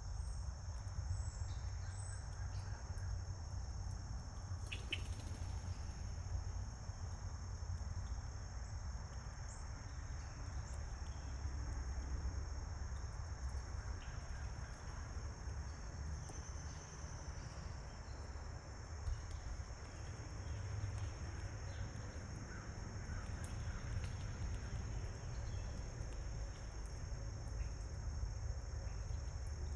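Steady high-pitched insect chorus, a continuous unbroken trill, over a low rumble. A few faint bird chirps come through now and then.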